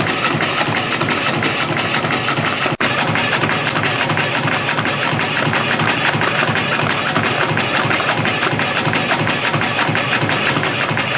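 CNC spring coiling machine running, feeding and coiling 0.7 mm wire into variable-diameter compression springs: a fast, even mechanical clatter, with a momentary break about three seconds in.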